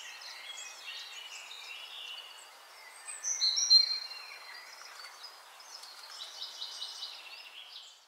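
Birds chirping with short high calls over a steady outdoor hiss. One louder, drawn-out high call comes about three and a half seconds in.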